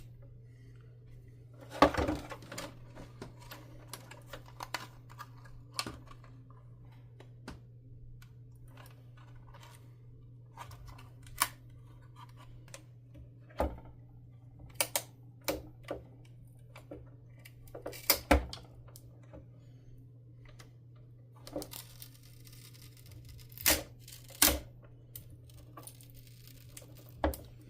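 Scattered sharp clicks and knocks of hand tools and plastic vacuum cleaner parts being handled during disassembly, loudest about 2, 18 and 24 seconds in, over a steady low hum.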